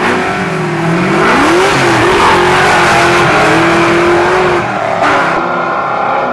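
A car engine revving hard. The pitch climbs over the first couple of seconds, holds high for a few seconds, then drops off about five seconds in.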